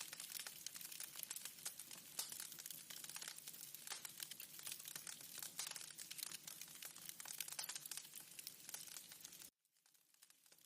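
Wood fire crackling in a fireplace, a dense run of small snaps and pops. About nine and a half seconds in it cuts out abruptly, then comes back faintly.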